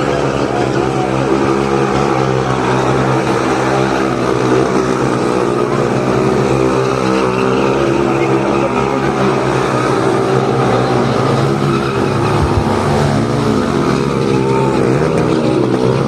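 Motorcycle engines running at steady high revs, with a few rises and falls in pitch a few seconds before the end.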